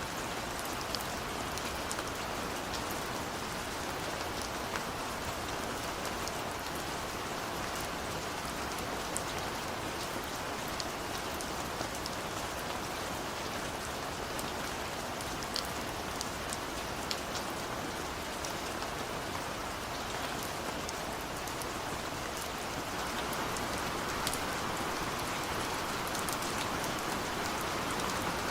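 Steady rain pattering on a window, a dense even hiss with scattered sharp drop ticks, growing slightly heavier about 23 seconds in.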